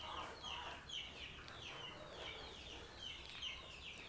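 Faint bird calls in the background: short falling chirps repeating about two or three times a second.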